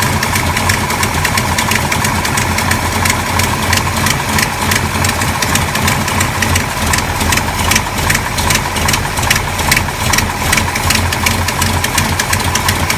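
1970 Dodge Charger's engine, fitted with a Lunati performance camshaft, idling with an uneven, pulsing beat.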